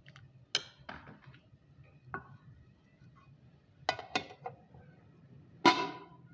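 A series of about six sharp knocks and clinks of hard objects, some with a short ring, spaced unevenly; the loudest comes near the end.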